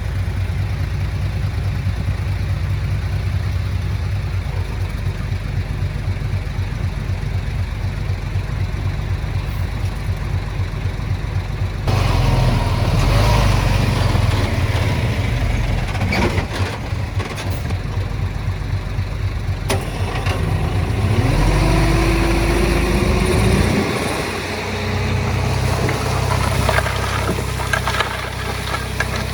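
Heavy diesel machinery engine running steadily at a low pitch. Partway through it becomes louder and noisier, with sharp knocks. Later the engine revs up in a rising pitch and then settles back to a steady run.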